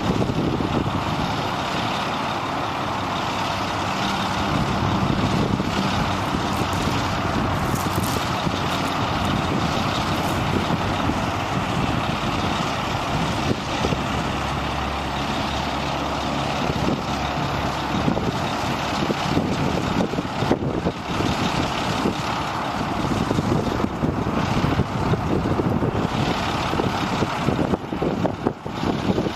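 The diesel engine of a 1997 International 2674 crane truck running steadily, with a few sharp knocks in the second half.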